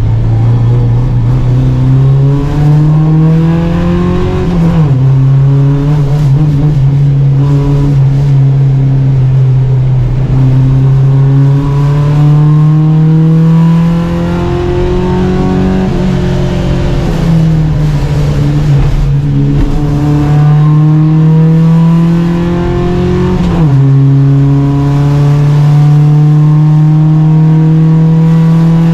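Volvo Amazon 121 race car's four-cylinder engine under hard acceleration, its pitch climbing through the revs. It drops sharply at three upshifts, about five seconds in, past the middle and near the end, and sags more gently where the throttle eases.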